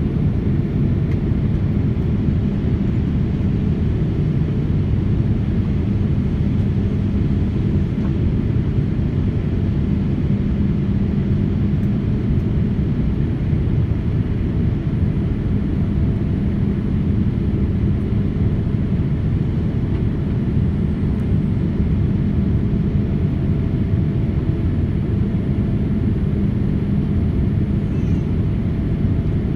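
Jet airliner cabin noise: a steady low rumble of the engines and airflow with a constant hum.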